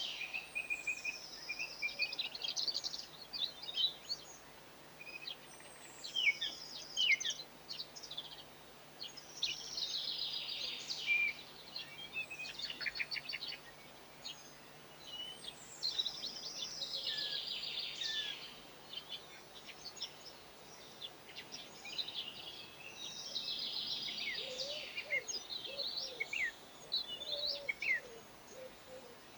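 A songbird singing, repeating a fast, high, trilling phrase of two to three seconds every few seconds, with scattered shorter chirps between phrases.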